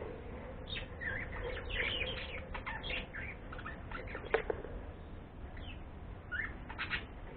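Pet bird chirping: a quick run of short gliding chirps over the first three seconds, and a few more near the end. A short sharp tap about halfway through.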